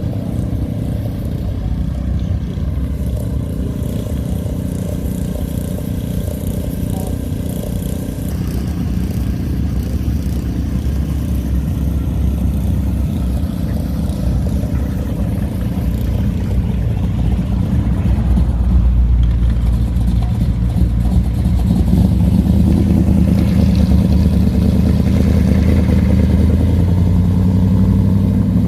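Hot rod and classic car engines running as the cars drive out at low speed: a deep, steady exhaust rumble that grows louder about two-thirds of the way through as one car comes close.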